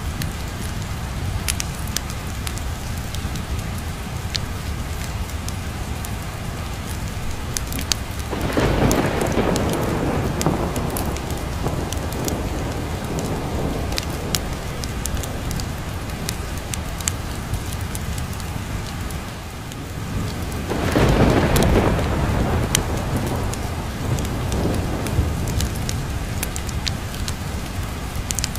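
Steady rain with the sharp pops of a crackling fireplace, and two long rolls of thunder, one about a third of the way in and another about three quarters through.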